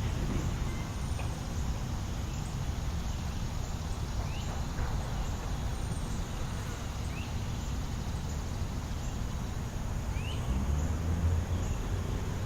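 Steady low rumble of city traffic, swelling near the end as a vehicle passes, with four short rising bird chirps about three seconds apart.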